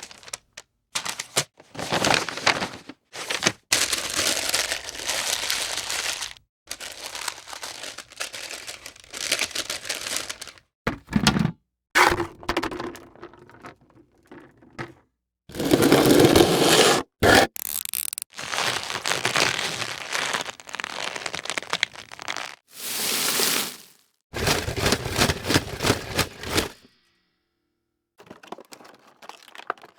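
A run of short foley sound effects played one after another, mostly noisy cracking, knocking and scraping sounds, each lasting a second or few and split by brief silent gaps.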